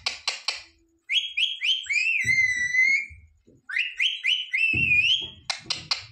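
Pet parrot whistling: a run of short rising notes leads into a long wavering whistled note, and the phrase comes twice. Quick clicking sounds come at the start and again near the end.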